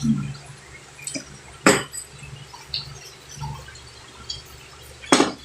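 Tableware clinking during a meal: a sharp clink about a second and a half in and two more in quick succession near the end, over faint eating noises.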